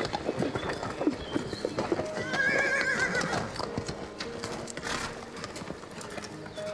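Horse whinnying once, a wavering high call about two seconds in, with hooves clip-clopping in short sharp strokes around it.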